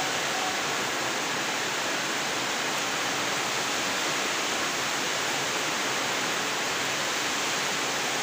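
Heavy rain pouring down, a dense steady hiss that holds at one level throughout.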